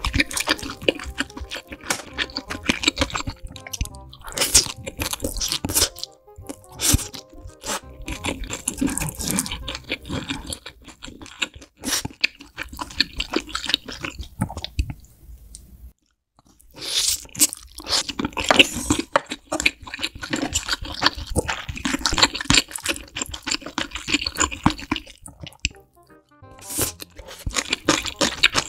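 Close-miked crunchy biting and chewing of food, dense rapid crunches that break off briefly about halfway through and again near the end.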